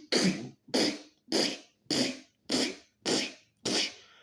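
A person's mouth sound effects: seven rhythmic breathy 'chh' bursts about 0.6 s apart, imitating digging with a shovel or pickaxe.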